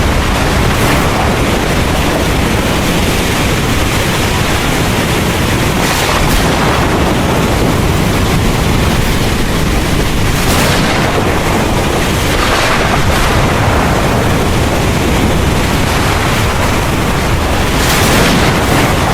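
Heavy rain falling in a steady downpour, with a continuous low rumble underneath and a few brief surges in the hiss.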